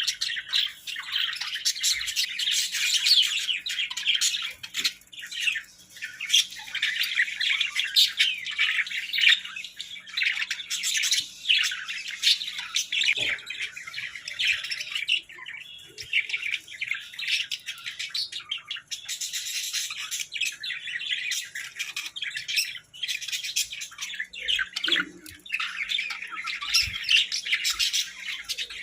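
Small pet birds chirping and squawking in rapid, busy chatter, with a few brief lulls.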